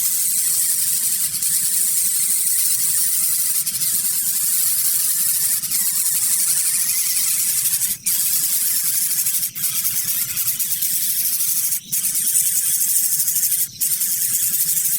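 Steady, loud high-pitched hiss, broken by a few brief dropouts in the second half.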